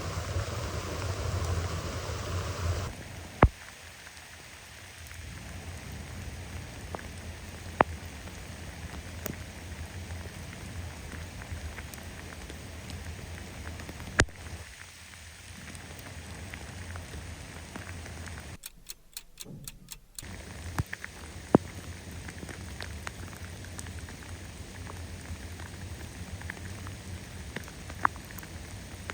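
Steady heavy rain falling, with a few sharp single clicks of drops striking close by. The sound cuts out briefly about two thirds of the way through.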